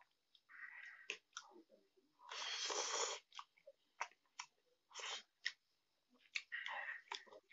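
Close-miked eating of Maggi noodles: chewing and wet mouth noises with scattered sharp clicks, among them one louder, longer noisy mouth sound lasting about a second, a couple of seconds in.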